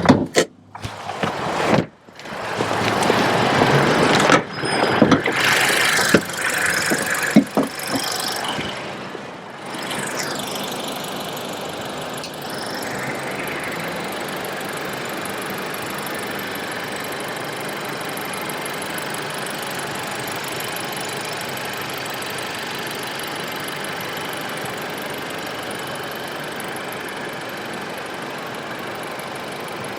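Acura ADX's 1.5-litre turbocharged four-cylinder engine running steadily at idle from about ten seconds in, after several seconds of irregular knocks and shifting noise.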